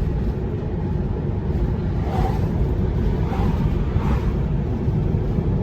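Steady road noise inside the cabin of a Tesla Model 3 electric car at speed: a low rumble of tyres on pavement and wind, with no engine sound.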